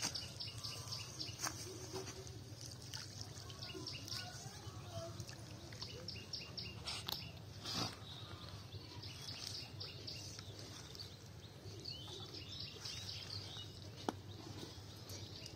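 Small birds chirping in quick repeated runs, over a steady low hum, with a few sharp clicks.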